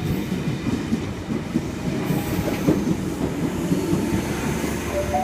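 Sydney Trains S-set electric suburban train's rear cars running past as it pulls out of the platform, a steady rumble of steel wheels on rail.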